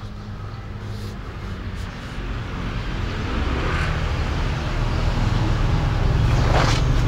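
Low rumble of a motor vehicle's engine, growing steadily louder as it approaches.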